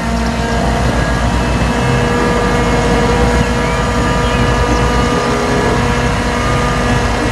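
Dump truck engine running steadily: a heavy low rumble with a steady hum of several tones over it.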